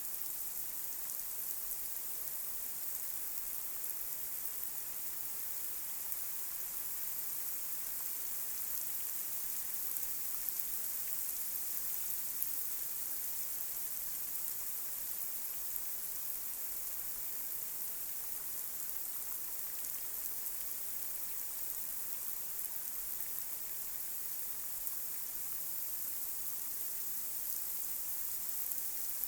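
Light rain falling on a street: a steady hiss of rain with many small drop ticks, weighted toward the high end.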